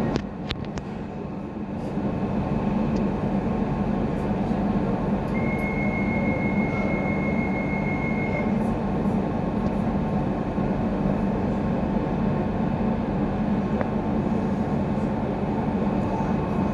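Docklands Light Railway train (Unit 137) running, heard from inside the front car: a steady rolling rumble. A few clicks and a short drop in level come just after the start, and a thin high whine sounds for about three seconds in the middle.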